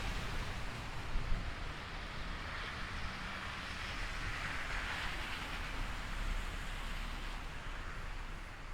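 A vehicle passing on a slushy street in a snowstorm: tyre hiss swells in the middle and fades near the end, over a steady low rumble.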